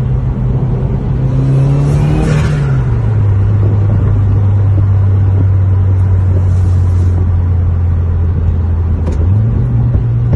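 2015+ Subaru WRX's turbocharged 2.0-litre boxer four heard from inside the cabin while driving. The revs climb with a rising whistle and hiss about two seconds in, then drop to a lower steady drone. The engine note climbs again near the end.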